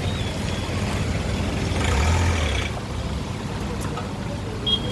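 A motor vehicle's engine running as it passes along a flooded road, loudest about two seconds in over steady traffic and water noise. A high steady tone, like a beep, starts just before the end.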